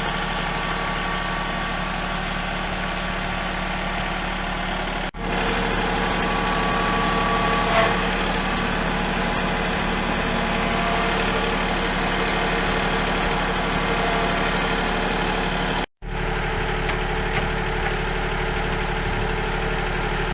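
Kubota tractor's diesel engine running steadily. The sound breaks off abruptly twice, about five seconds in and again near sixteen seconds, then picks up again.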